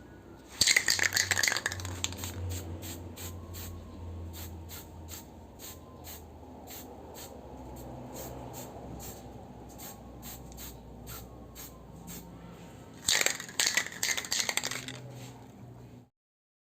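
Aerosol spray paint can being shaken, its mixing ball rattling: two loud stretches of rapid rattling about a second in and near 13 seconds, with lighter, evenly spaced rattling clicks between them. The sound cuts off suddenly near the end.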